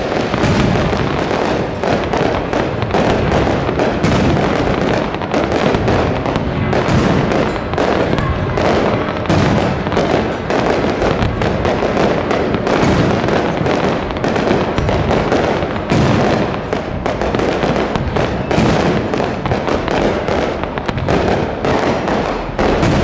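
Aerial fireworks shells bursting in a dense, unbroken barrage, many bangs and pops overlapping one another.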